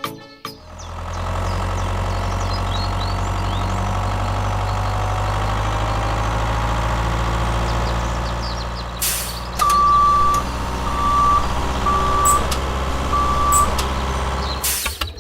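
A vehicle engine running steadily with a low drone. In the second half there is a short hiss, then four electronic beeps, the first one longer than the other three.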